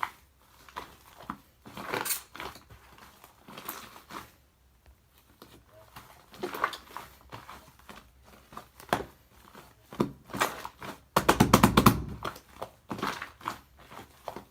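A soft cream-topped cake being squished and crushed by hand, giving irregular squelching and crunching noises. About eleven seconds in comes a loud, fast run of squelches lasting about a second.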